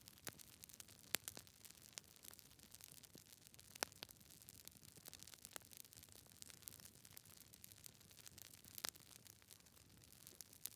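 Logs burning in a fireplace, crackling: irregular sharp pops and snaps over a faint steady hiss, a few of them louder than the rest.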